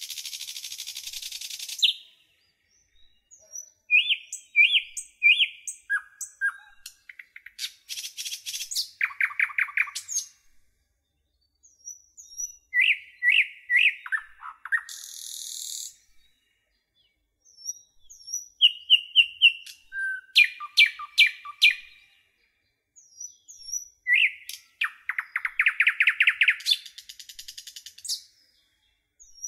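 Small songbirds chirping: repeated phrases of quick high notes and rapid trills, broken by short silent gaps.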